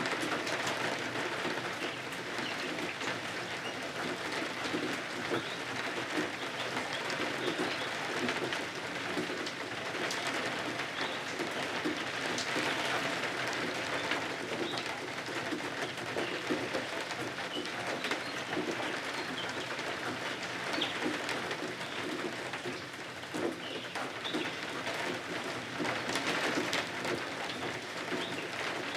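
Steady rain pattering, a dense even hiss full of small ticks and drips.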